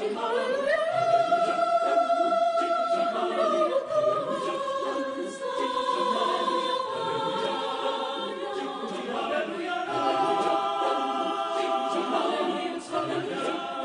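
Choir singing a hymn of praise in several parts, holding long sustained chords that slide up at the start and shift to new chords a few times.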